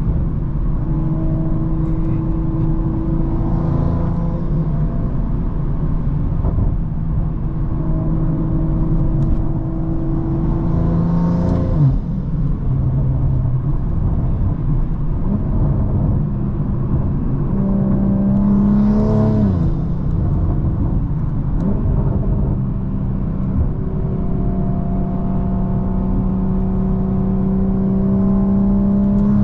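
BMW M340i's big-turbo B58 inline-six pulling while driving. Its pitch climbs under acceleration and drops sharply at two gear changes, about twelve and twenty seconds in, then climbs again near the end.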